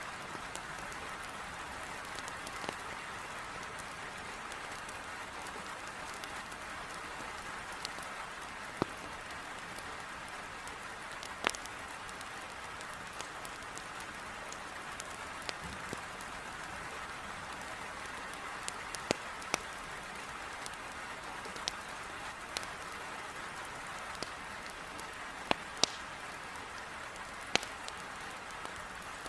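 Heavy rain hissing steadily against a window, with irregular sharp pops and crackles of burning firewood scattered through it.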